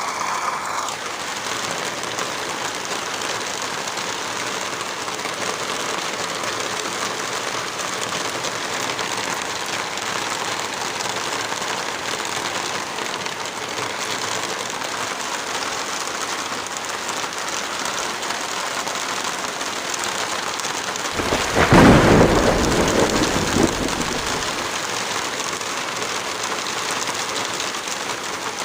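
Heavy rain falling steadily. About three quarters of the way through, a louder, deeper burst rises suddenly and fades over about three seconds.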